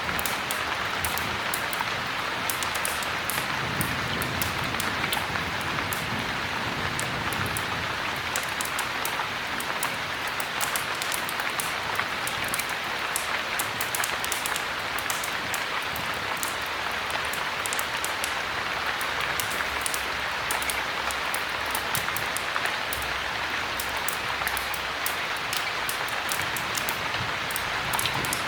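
Heavy rain falling steadily, an even hiss with many small sharp ticks of drops through it.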